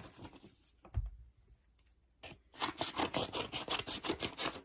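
Packaging being cut open: a soft thump about a second in, then a fast run of scratchy rasping strokes, about eight a second, through the last two seconds.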